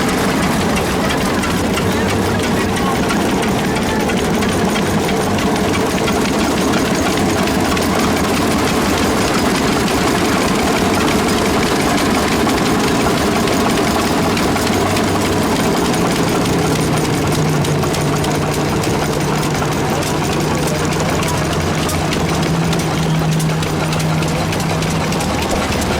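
Tractor engine running steadily. A second steady low hum joins about sixteen seconds in and stops near the end.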